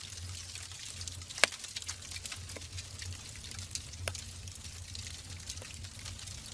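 Wood fire burning in a fireplace: a steady hiss with irregular crackles and sharp pops from the logs, the loudest pop about a second and a half in. A low steady hum runs underneath.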